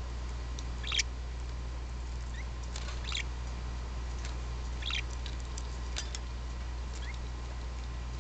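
Parakeets in a cage giving short, squeaky chirps every second or two, with a few light clicks, over a steady low hum.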